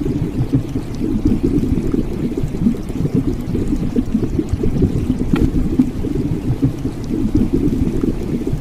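Muffled, bubbling water noise, low-pitched and continuous, with nothing in the higher range.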